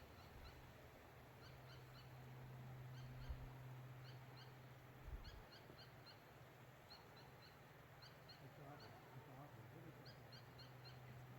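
Faint outdoor ambience: small birds give short high chirps in quick groups of two to four, again and again, over a low steady hum.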